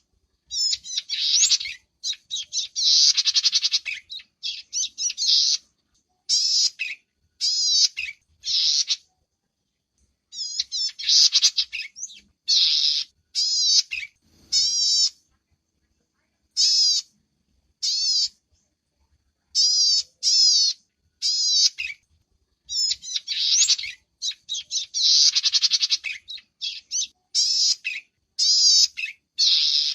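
Small songbird calling in repeated phrases of fast, high-pitched chattering notes, some phrases about two seconds long and others short, separated by brief silences.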